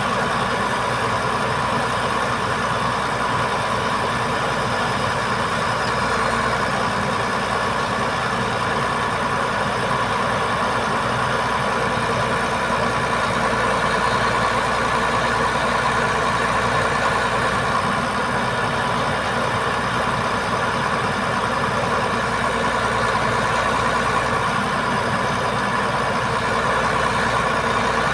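Heavy diesel engine of an Iveco Trakker boom truck running steadily at idle, with an even hum and no change in pace.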